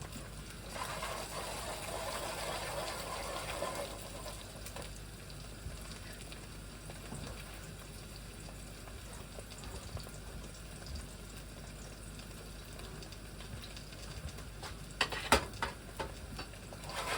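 Eggs frying in a pan with a soft, steady sizzle, a little louder in the first few seconds, and a few sharp taps near the end.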